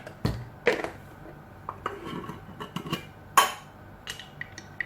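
Metal spoon clinking and scraping against a container and spice jars while seasonings are measured out, a series of sharp knocks with the loudest about three and a half seconds in.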